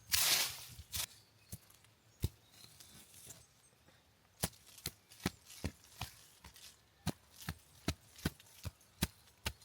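A brief rustling swish, then from about four seconds in a run of sharp knocks, roughly two a second and irregularly spaced.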